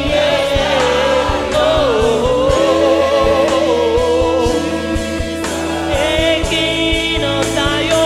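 Gospel worship music: voices singing long, sliding notes over a bass line and regular drum hits.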